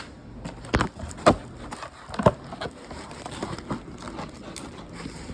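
Kitchen clatter: a handful of sharp, irregular knocks as items are handled and set down, the loudest about a second and two seconds in.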